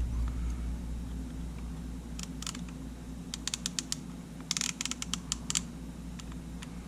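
Small, sharp plastic clicks from handling a Sony A7 camera body and working its controls: a few scattered clicks, then a quicker cluster of clicks near the middle, over a steady low hum.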